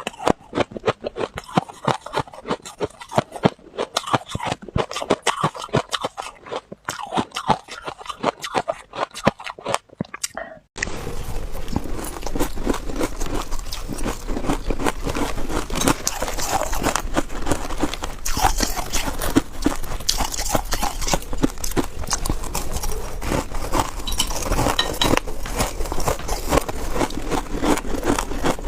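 Freezer frost being bitten and chewed: a rapid run of crisp, sharp crunches. About eleven seconds in the sound changes abruptly to denser, continuous crunching over a low steady hum.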